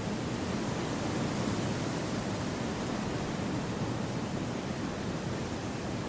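Steady wind noise: an even, rushing hiss weighted toward the low and middle range, with no gusts, rustles or other distinct events.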